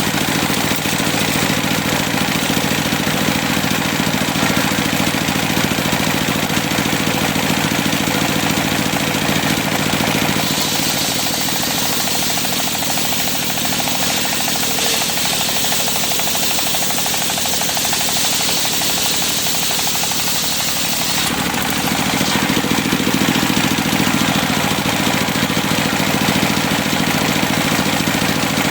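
Engine-driven sawmill circular saw running and cutting cempaka timber: a loud, steady machine sound. It changes character about ten seconds in and changes back around twenty seconds in.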